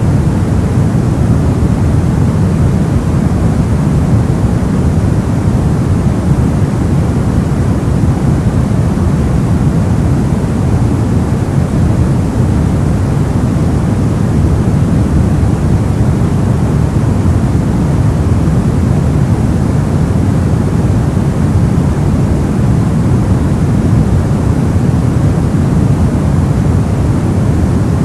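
Soft white noise for sleep: a steady, unbroken hiss weighted toward the low end, with no change in level.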